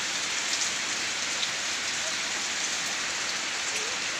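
Steady rain falling, an even wash of noise with no break.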